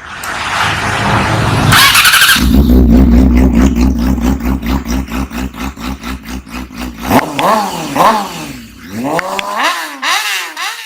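Bajaj Dominar 400's single-cylinder engine running: after a brief noisy start it settles into a steady, pulsing idle, then is revved several times in the last few seconds, the pitch rising and falling with each blip.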